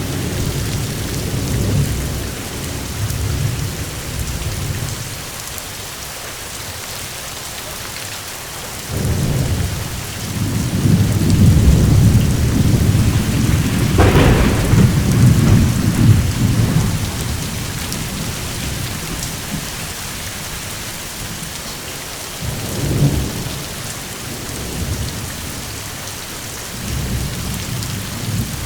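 Steady heavy rain with thunder rumbling low: a long, loud roll about a third of the way in with a sharper crack at its peak, and shorter, softer rumbles at the start and near the end.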